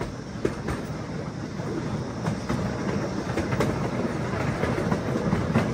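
Zoo train cars rolling on their rails, a steady rumble with irregular clicks of the wheels over the rail joints.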